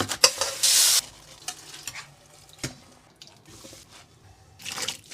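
Food being stirred in a hot pan, with irregular bursts of sizzling (loudest in the first second, again around three and a half seconds in and near the end) and a sharp clink of the utensil partway through.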